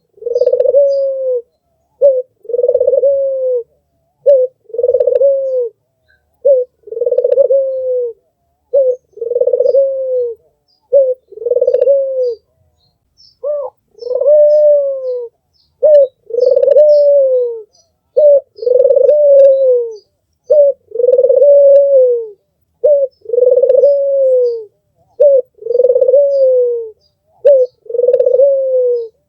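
Albino puter (domestic ringneck dove) cooing over and over, about one call every two seconds. Each call is a short note followed by a longer, slightly falling coo.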